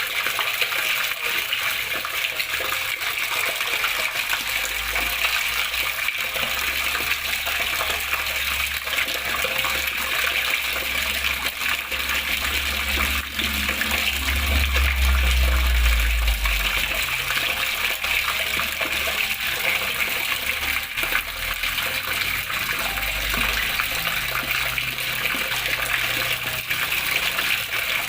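Steady flowing, splashing water, an even rushing hiss, with a low rumble that swells in the middle and comes and goes.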